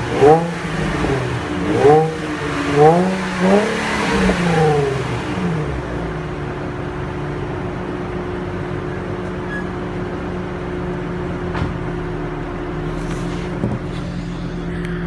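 2007 Infiniti G35 coupe's 3.5-litre V6 through its stock exhaust, blipped about five times in quick revs that rise and fall, then settling to a steady idle about six seconds in.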